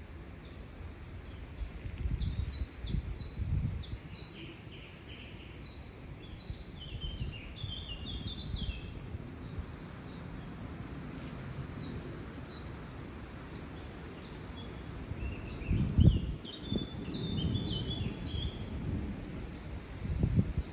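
Small birds chirping in quick runs of short high notes, in two spells, over low rumbling surges; the loudest surge comes about two-thirds of the way in.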